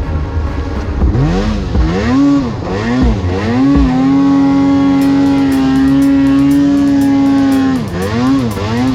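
Snowmobile engine revving up and down repeatedly, then held at high revs for about four seconds before dropping and revving again near the end.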